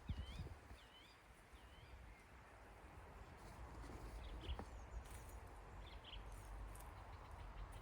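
A songbird calling outdoors: three quick swooping chirps about half a second apart in the first two seconds, then a few fainter short chirps, over a faint low rumble.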